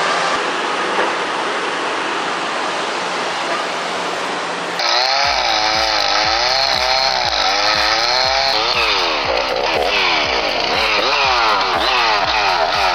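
A steady rushing noise for the first few seconds, then, after an abrupt change about five seconds in, a chainsaw engine revving up and down repeatedly.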